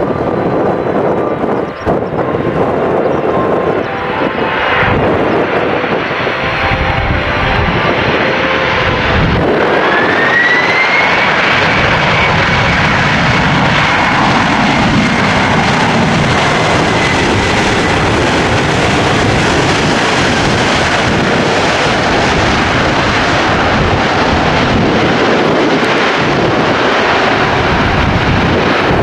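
Jet airliner's engines running loudly, with a whine that rises about ten seconds in and then holds steady as the roar builds.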